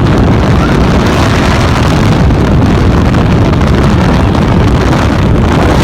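Strong wind from a hurricane simulator blasting over the microphone: a loud, steady rush of wind noise, heaviest in the low end.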